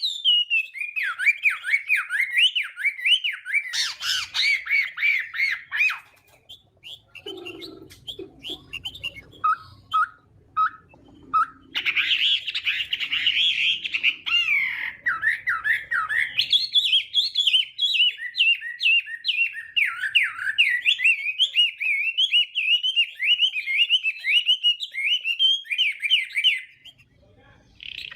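Chinese hwamei singing a fast, varied song of rapid rising and falling whistled notes. About six seconds in the song breaks off for several seconds, with only a few short notes, then it resumes and runs on steadily until it stops shortly before the end.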